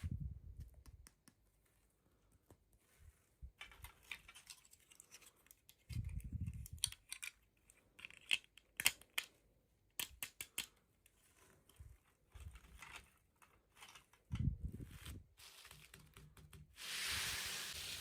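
Toy packaging being handled and opened: scattered small plastic clicks and ticks, a few soft bumps, and a longer crinkling, tearing rustle near the end.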